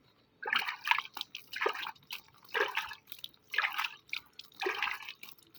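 Water splashing in short bursts, five times about a second apart, as a spotted dove is being bathed.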